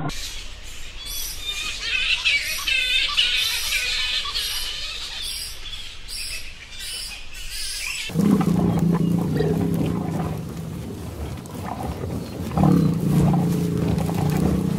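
Bats screeching in a dense chatter of high, wavering squeaks for about eight seconds. Then an abrupt change to an American bison bellowing: low, rumbling grunt-calls in two long bouts.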